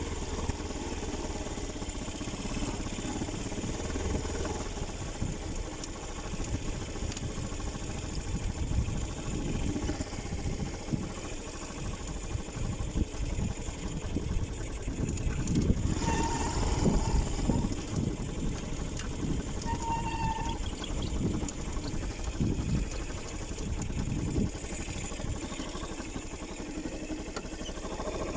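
Motorcycle engine running during a ride, a steady low rumble that swells and fades. Two brief higher tones sound about midway through.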